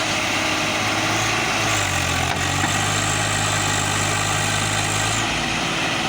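Sonalika tractor's diesel engine running steadily. Its note shifts slightly about two seconds in and again a little after five seconds.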